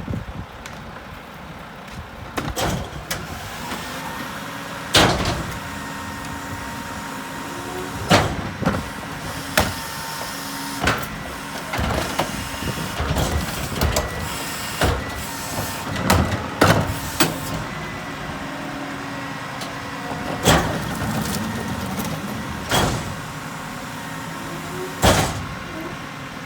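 Mack MRU rear-loader garbage truck running, with a faint steady whine, while a string of sharp bangs and clatters comes every second or two. These are trash cans and bags knocking into the McNeilus rear-loader hopper during curbside pickup.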